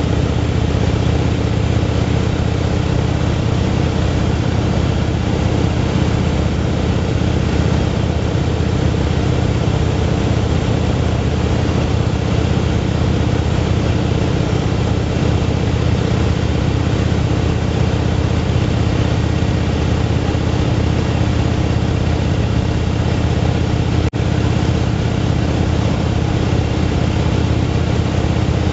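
Motorcycle engine running at a steady cruising speed, with wind and road noise over it. The engine note holds one steady pitch throughout, broken by a momentary dip in the sound late on.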